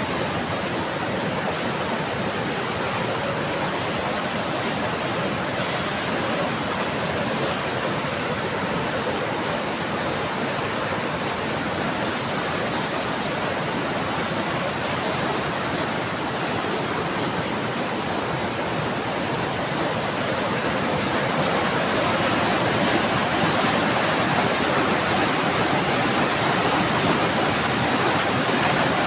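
Heavy rain pouring steadily, growing a little louder about three-quarters of the way through.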